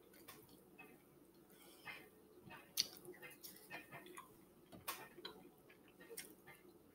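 Quiet close-up eating: a person chewing a mouthful of sausage, cucumber and rice with soft wet mouth clicks and smacks, two sharper clicks at about three and five seconds in.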